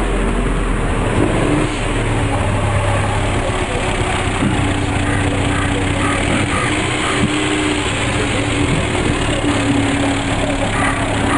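A car engine running steadily, a low hum under a dense, even background noise.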